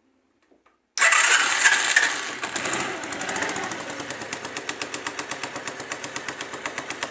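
Dafra Zig 50 scooter engine starting about a second in, running fast briefly, then settling to idle with a rapid, regular tapping like a sewing machine or a pin knocking from the clutch side, which the owner takes for a clutch problem.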